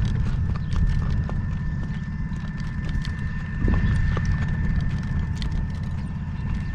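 A horse's hooves clip-clopping at a walk as it pulls a driving cart, with scattered rattling clicks from the cart over a steady low rumble of wind on the microphone.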